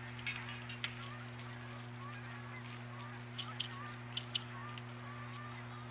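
Outdoor bird calls: a string of short, wavering honks alongside a few sharp, high calls, over a steady low electrical hum from the nest camera's microphone.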